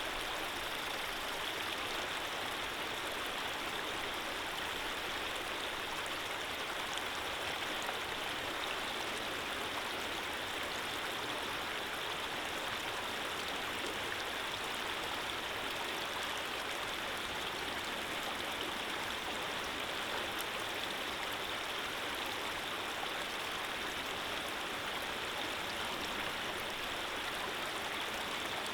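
Running water from a small stream, flowing with a steady, even rush.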